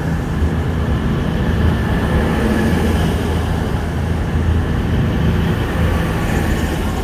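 Passenger train pulling out of the station, a steady low rumble.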